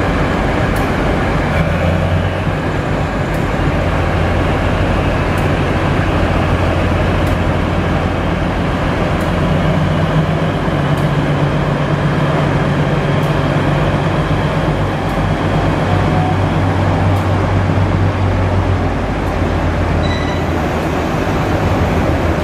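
Cummins QSK45 V12 diesel generator engine of a diesel-electric railcar running steadily under load, heard mostly as its exhaust: a low drone that drops slightly in pitch about ten seconds in and again near the end. Faint clicks come about every two seconds.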